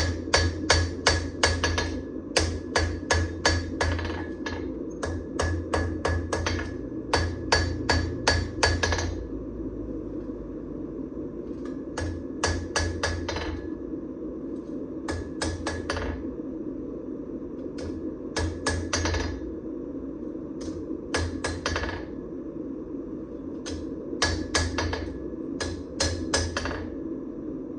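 Hammer blows forging a damascus steel knife blank: runs of about four to eight sharp, evenly spaced strikes, about four a second, with short pauses between runs. A steady low hum runs underneath.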